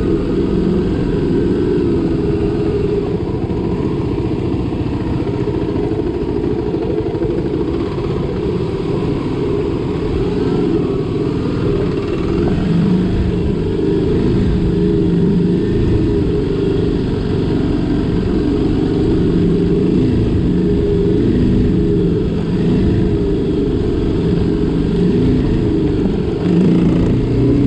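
Motorcycle engine running while riding, loud and continuous, its pitch rising and falling a little with the throttle.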